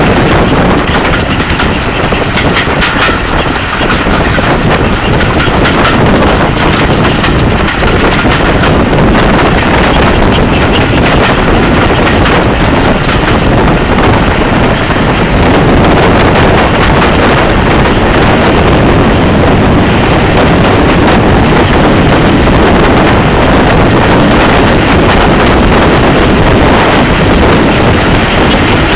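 Loud, steady rush of wind buffeting a microphone held out of a moving train's carriage window, mixed with the running noise of the coaches on the track.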